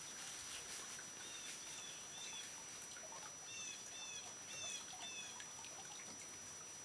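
A small bird calling in two runs of short, quick, repeated chirps, one starting about a second in and the other near the middle, over faint outdoor background noise with a thin, steady high tone.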